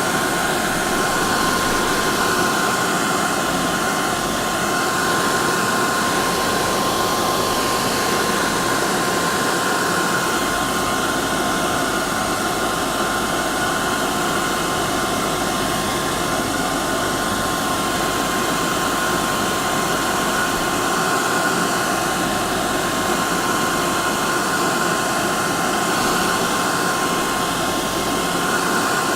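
Electric hair dryer running steadily: a constant rush of air with a steady motor whine near 1 kHz.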